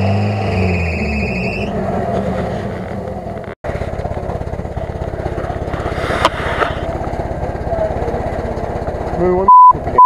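UAZ-469 off-roader's engine revving in the mud, its pitch falling away about a second and a half in; after a cut it runs steadily at idle with an even beat. Near the end a loud censor bleep sounds over a voice.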